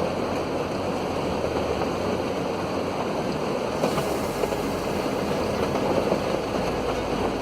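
Steady rushing noise of a car driving through heavy rain, with tyres on a wet road and rain on the car.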